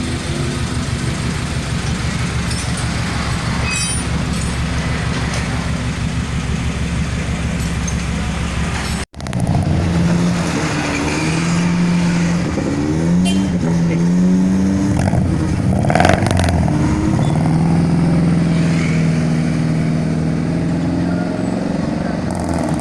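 Suzuki Carry injection four-cylinder engine running through a freshly fitted custom exhaust, with a 431-type header, wrapped pipe and muffler. It idles steadily, then after a break about nine seconds in it is blipped up and down several times before settling back to steady running.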